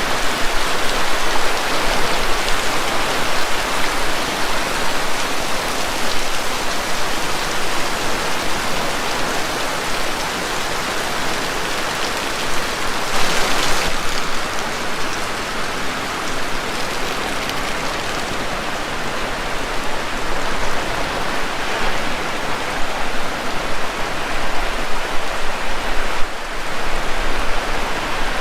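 Heavy rain falling, a steady dense hiss that briefly swells louder about halfway through.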